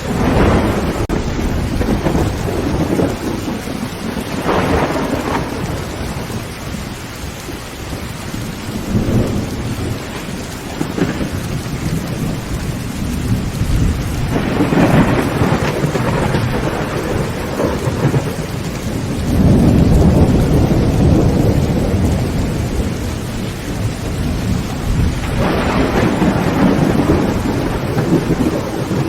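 Heavy rain falling steadily on a tin tent roof, with rolls of thunder rumbling up and fading several times. The longest and loudest roll comes about two-thirds of the way through.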